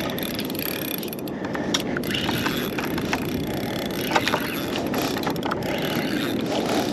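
Penn Slammer VI spinning reel being wound in on a hooked fish: a steady gear whir with scattered small clicks.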